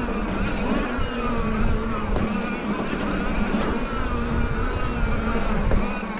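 Bafang M620 mid-drive e-bike motor whining under power, its pitch wavering up and down with speed, over a low wind rumble.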